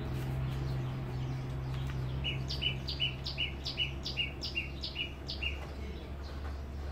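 A bird calling a quick, evenly spaced run of about nine high chirps, roughly three a second, starting about two seconds in and stopping after some three seconds, over a steady low hum.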